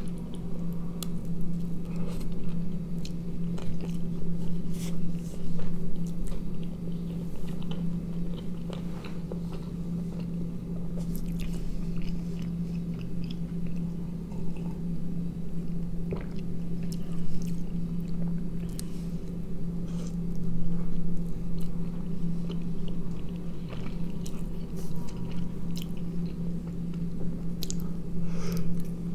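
Close-miked biting and chewing of a soft tortilla wrap filled with sausage, cheese and sauce: wet, squishy mouth sounds and small clicks, over a steady low hum.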